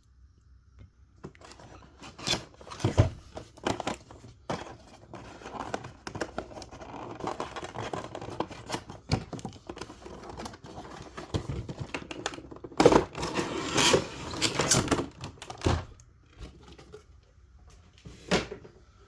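Cardboard box and plastic packaging being handled and opened by hand: scattered clicks, scraping and crinkling, with a louder stretch of tearing and rustling about two-thirds of the way through.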